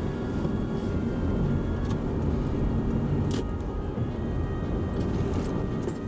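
Steady low rumble of a car running, with music playing underneath and a single light click about three and a half seconds in.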